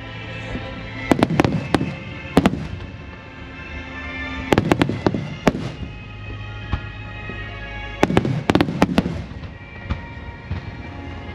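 Firework shells bursting overhead in quick clusters of sharp bangs, about four volleys, with music playing steadily underneath.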